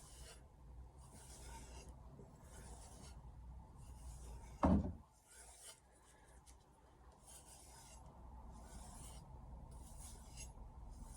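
Knife blade drawn in repeated strokes along a plain leather and suede strop with no compound, each stroke a short soft scrape, under a second apart. A thump about halfway through, then a brief pause before the strokes resume.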